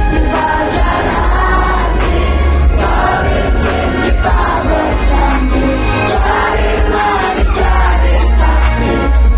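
Live pop music: a girl group singing together over a loud backing track with heavy bass, with the crowd audible underneath.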